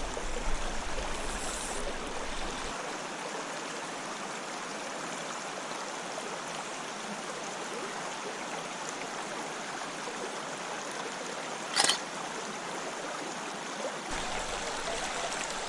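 Creek water running and trickling steadily, with a single sharp click about twelve seconds in.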